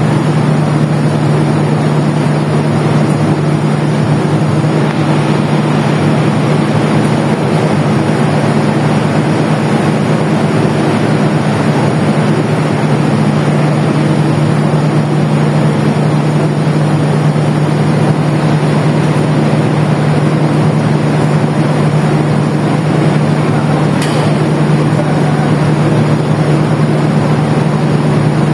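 Diesel engine of a standing passenger train running steadily at idle: an even, unchanging low hum over a mechanical rumble, with one faint click late on.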